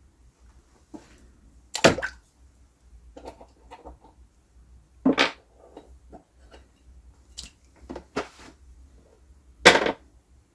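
Metal parts of a stripped-down espresso machine being handled and set into a container to soak. There are scattered knocks and clinks, the loudest about two seconds in, about five seconds in, and twice near the end.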